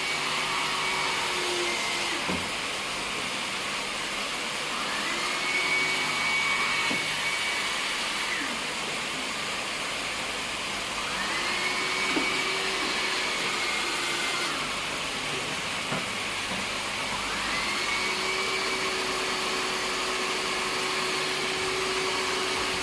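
Electric hair dryer running continuously with a steady rush of air. Its motor whine steps up in pitch and back down about three times, each raised stretch lasting three to four seconds.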